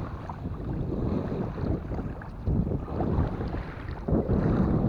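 Wind buffeting the microphone: a low, uneven rumble that swells in gusts, louder about halfway through and again near the end.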